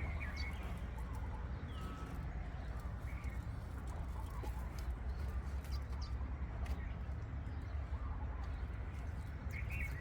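A few faint, scattered bird chirps over a steady low rumble.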